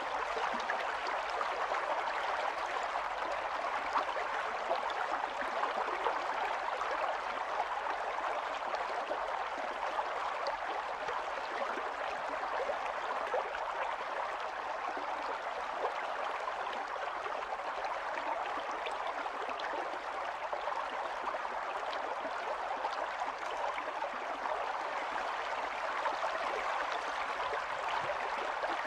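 Running stream: water babbling and gurgling steadily over stones.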